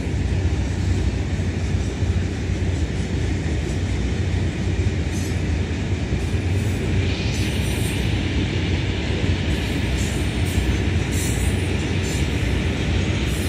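Iron-ore train's long string of hopper wagons rolling past, a steady heavy rumble of wheels on rail. A higher hiss joins it about halfway through.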